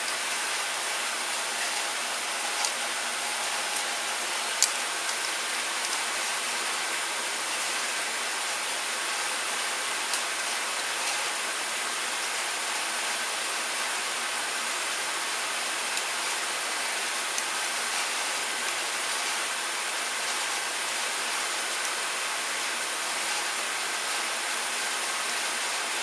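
Steady, even hiss with a few light clicks scattered through it.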